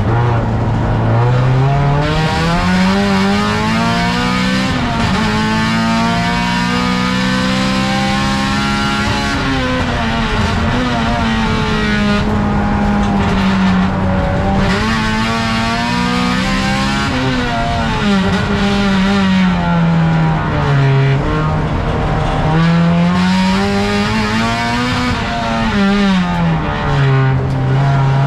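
Race car's engine heard from inside the stripped cabin, pulling hard and easing off over and over as it laps the circuit. The engine note climbs and falls in long sweeps, with several quick drops in pitch at gear changes.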